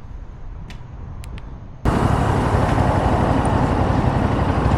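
Motorcycle on the move: loud wind rush over the microphone with engine rumble underneath, cutting in suddenly about two seconds in after a quiet low rumble.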